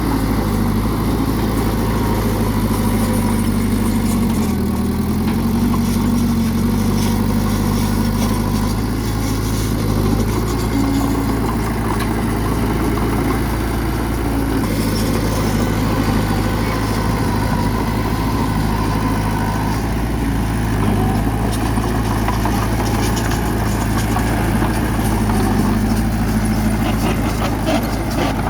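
Bulldozer's heavy diesel engine running steadily, with its pitch dipping briefly about four seconds in, as if lugging under load.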